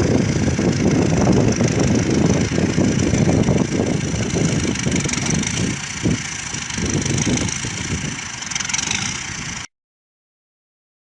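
A vehicle engine running with an uneven rumble, cutting off suddenly into silence near the end.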